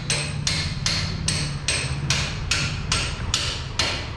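Rapid, evenly spaced knocking strikes, about two and a half a second, over a low steady hum.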